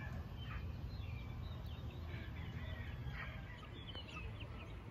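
Faint, scattered short chirps and calls of birds, several over a few seconds, with a low steady rumble underneath.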